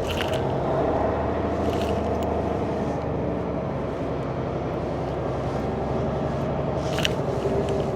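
Semi truck's diesel engine running steadily, with a few short clicks or rattles, about a second and a half apart near the start and once more near the end.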